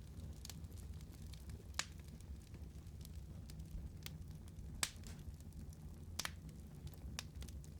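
Wood fire burning with a low, steady rumble and scattered sharp crackles and pops, three of them louder than the rest.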